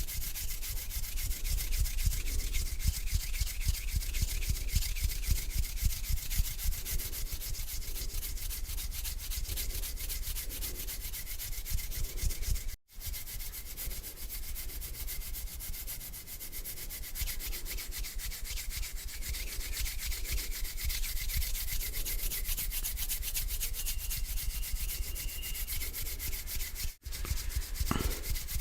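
Palms rubbing together slowly and steadily, a continuous dry rasping swish in rhythmic strokes. The sound drops out briefly twice, about halfway through and near the end.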